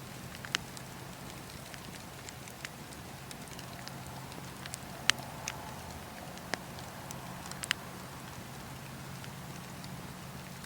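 Campfire crackling: a steady low hiss of burning wood, broken by scattered sharp pops, the loudest about five seconds in, with others about half a second in and near seven and a half seconds.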